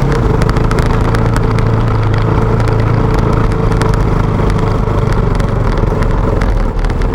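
KTM motorcycle engine running at low revs, with scattered clicks and rattles over it; the engine note drops a little near the end.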